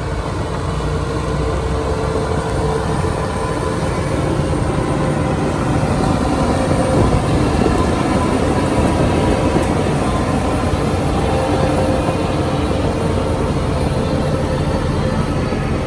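Heavy diesel engine of earthmoving machinery running steadily. It grows a little louder over the first several seconds.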